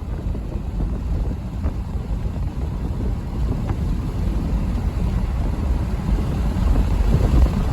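Low rumble of diesel freight locomotives sitting at idle, slowly growing louder, with wind buffeting the microphone.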